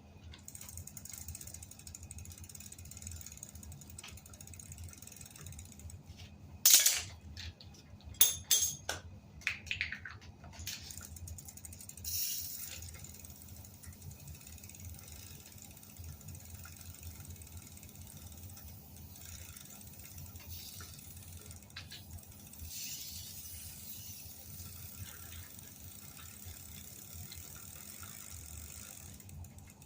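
Bicycle being handled: a few sharp mechanical clicks and knocks, the loudest about seven and eight seconds in, over a steady low hum.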